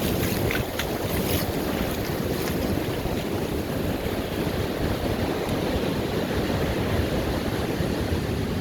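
Ocean surf washing onto a beach, with wind buffeting the microphone as a steady low rumble.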